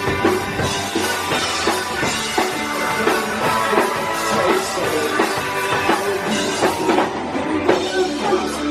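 A live rock band playing an instrumental stretch of a song, with electric guitar, bass and drum kit.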